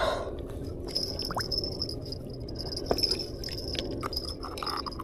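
Water sloshing, splashing and dripping with small wet clicks as a big carp is handled at the river's edge, over the steady wash of the river. A thin, steady high-pitched buzz runs through it.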